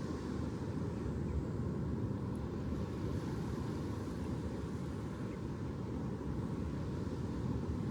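Steady, deep rumbling noise that holds even throughout, with no swells or separate events.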